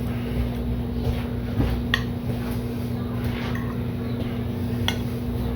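Steady low hum from the room, with a few faint clicks and smacks of someone eating ribs with his hands.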